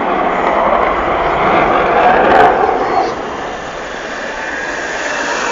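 Jet noise from a Panavia Tornado GR4's twin RB199 turbofan engines as it flies past, loudest about two and a half seconds in, then fading.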